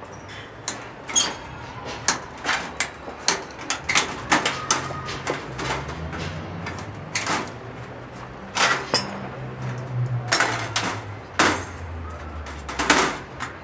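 Irregular hammer blows and sharp knocks on sheet metal, well over a dozen, some in quick runs and some spaced apart, as metal cladding is fitted.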